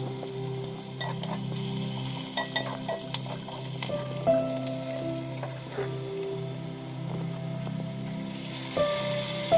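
Food frying and sizzling in a clay handi while it is stirred, with scattered clicks of the utensil against the pot. Background music plays underneath.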